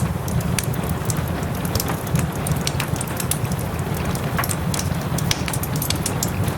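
A wood fire crackling, with many sharp pops at irregular intervals over a steady low rumble, and soft rain running underneath.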